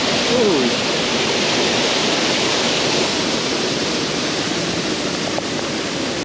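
Rushing river water around a raft: a steady, even hiss.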